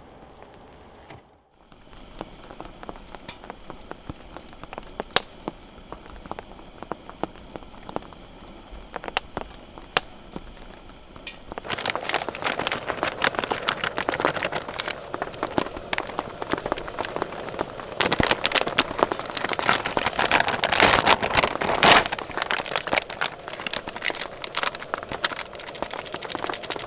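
Rain falling on a surface. It starts as scattered separate drops, then about twelve seconds in it turns abruptly to a denser, louder fall of drops.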